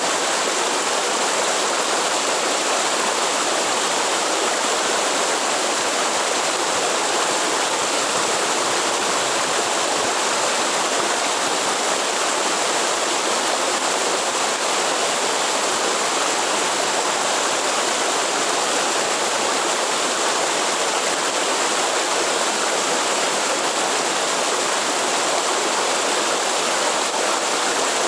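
Waterfall or fast stream pouring steadily: an even, unbroken rush of water.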